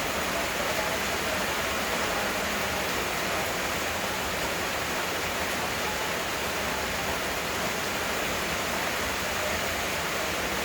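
Heavy rain falling steadily: a dense, even hiss with no single drops or gusts standing out.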